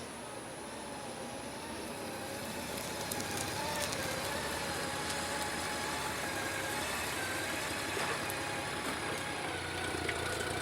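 2012 Honda Gold Wing's flat-six engine running as the bike rides along the street, with a steady rushing noise under a faint, gently wavering engine hum.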